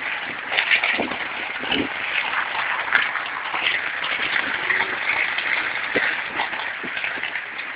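Rain falling steadily, a dense patter of many small drop ticks over a continuous hiss.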